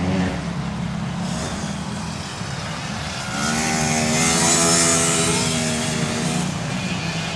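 Pit bike engine running, then revving up a little over three seconds in: the engine note climbs and is loudest around the middle before easing off near the end.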